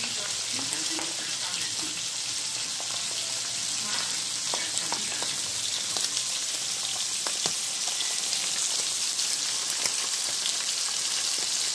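Trout fillets frying in hot fat in a pan and on a grill pan: a steady high sizzling hiss with scattered small pops and crackles.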